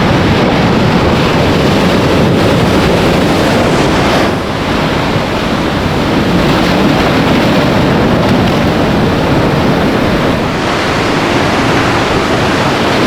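Ocean surf breaking and washing in, with wind buffeting the microphone: a steady loud roar that eases briefly about four seconds in.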